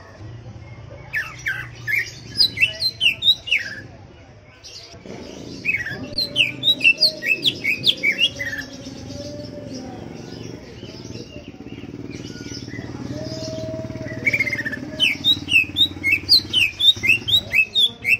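Cucak ijo (leafbird) singing in three bursts of quick, sharply sweeping notes, each run lasting a few seconds, over a steady low background hum.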